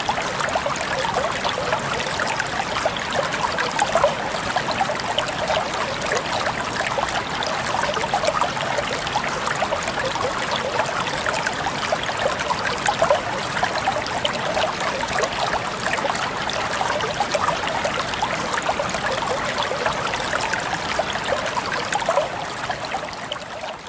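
River water running: a steady rush thick with small splashes and gurgles, fading down near the end.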